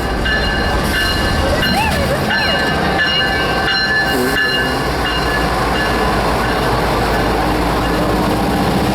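Train rolling slowly along the track as it slows to stop, its wheels rumbling on the rails, with a steady high-pitched squeal over the rumble.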